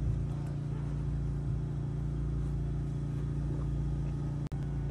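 Steady low hum of an idling car engine, even and unchanging, cutting out for an instant near the end.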